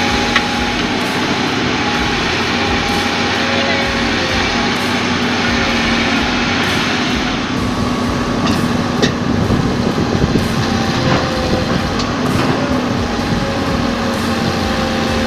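Heavy truck engine running steadily with a constant low hum, with a few sharp clicks and knocks over it.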